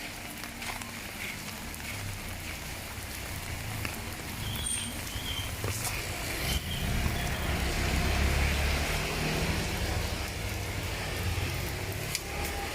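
A motor vehicle passing along a wet road in the rain, its low rumble building to its loudest about eight seconds in and then fading, over a steady hiss of rain.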